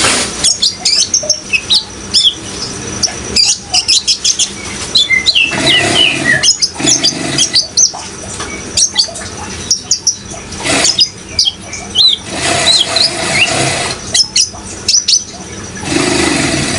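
Kolibri ninja sunbird song: a rapid run of high, thin chirps and quick sweeping twitters, in dense bursts with brief gaps. Under it runs a steady sound of flowing water.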